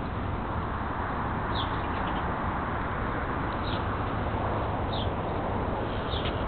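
A few short, high bird chirps over a steady low rumble and hiss.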